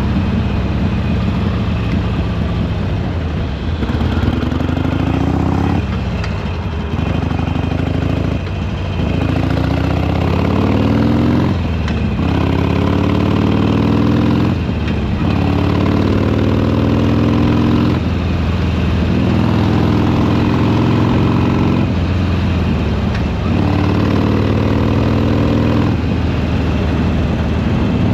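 Harley-Davidson Sportster Iron 883's air-cooled V-twin exhaust under way, the pitch climbing under throttle and dropping back again and again, about every two to three seconds.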